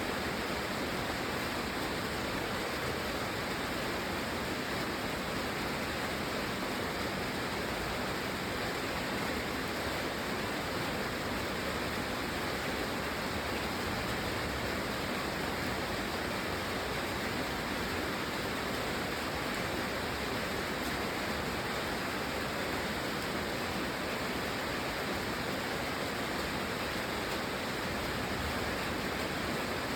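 Steady rain falling, an even, unbroken hiss with no separate drops or gusts standing out.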